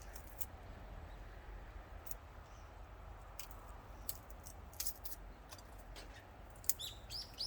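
Scattered sharp, light clicks over a low steady outdoor rumble, with a bird chirping a few times near the end.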